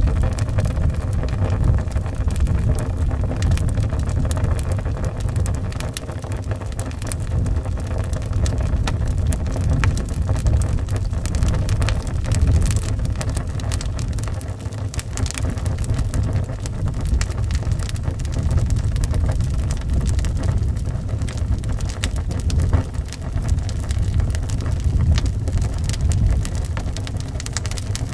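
Wood fire crackling, with frequent small pops and snaps, over a steady low rumble of howling wind.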